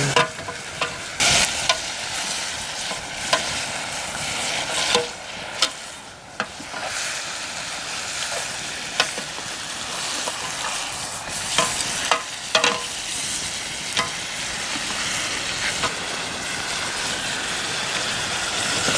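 Chicken curry frying in a blackened wok over a wood fire, sizzling steadily, with scattered sharp clicks and scrapes as a long metal spoon stirs it against the pan.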